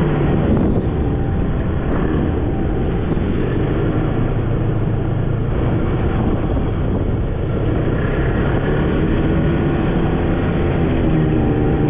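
Snowmobile engine running steadily as the machine travels.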